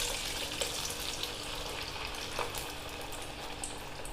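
An onion-and-potato bajji patty sizzling in hot oil just after being slipped in: a steady frying hiss with scattered crackles and pops, slightly louder at first and then settling.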